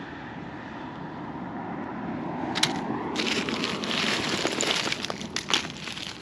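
Crunching and crackling of dry, burned debris being disturbed, starting about two and a half seconds in and coming thick and irregular, over a steady rushing noise that slowly grows louder.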